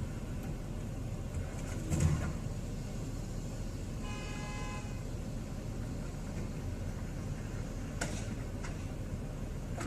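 Steady road and traffic noise, with a single car horn blast of about a second about four seconds in and a dull thump about two seconds in.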